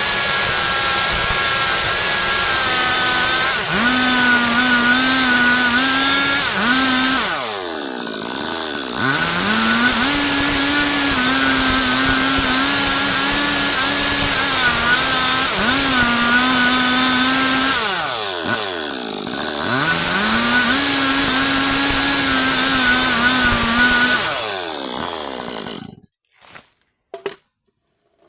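Stihl MS 382 two-stroke chainsaw running at high revs while cutting wood. Twice the revs drop away and climb back up, and near the end the engine cuts off.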